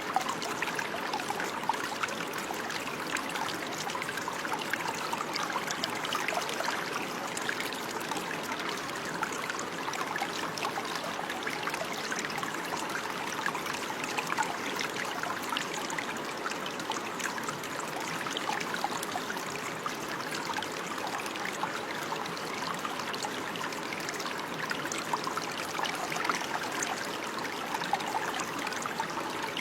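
Running water flowing steadily, an even continuous rush with no pauses.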